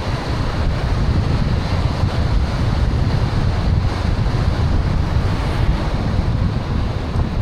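Wind buffeting the microphone: a steady, loud, low rushing noise with no pauses.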